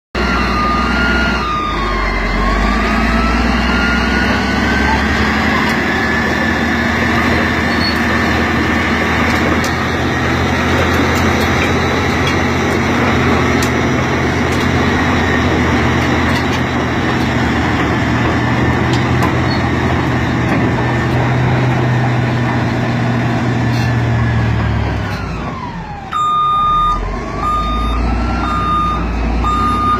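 Caterpillar D6R bulldozer's diesel engine running under load, with a whine that rises in pitch about two seconds in, holds steady, then drops near the end. Its reversing alarm beeps at the start and again over the last few seconds.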